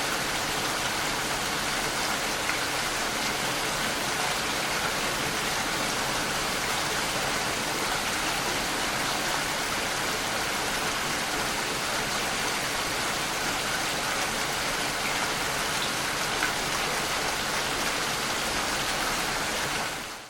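Steady, dense rainfall: a constant hiss of drops pattering on surfaces, fading out near the end.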